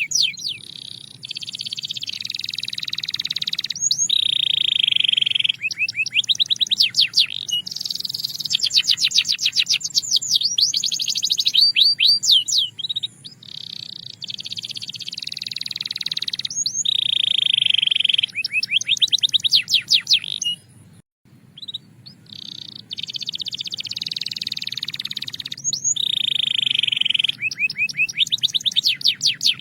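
Belgian canary singing a continuous, high-pitched song: fast rolls of rapidly repeated sliding notes alternate with held buzzy tones. There is a brief break about two-thirds of the way through.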